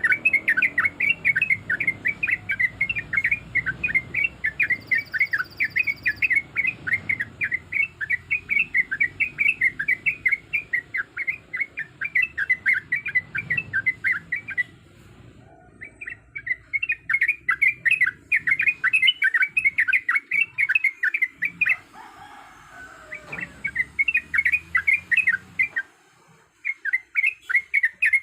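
Yellow-vented bulbul (trucuk) singing a long run of rapid, bubbling chattering notes, with a few short pauses.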